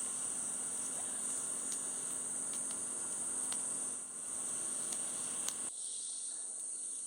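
Steady high-pitched insect chorus, like crickets, with a few faint ticks; a lower background hiss cuts off abruptly near the end.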